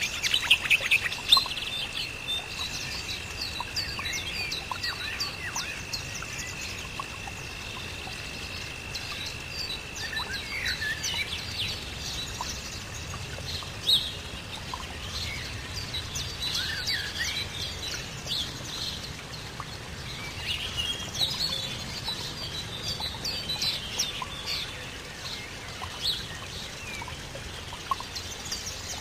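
Several birds chirping and singing in quick, short calls throughout, over a light outdoor hiss. A steady high-pitched tone sounds along with them and stops about twelve seconds in.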